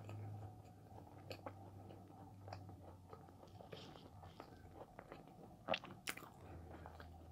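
Faint, close-up chewing of a soft, creamy sweet potato tart: small wet mouth clicks and smacks, with two louder ones about six seconds in, over a faint low hum.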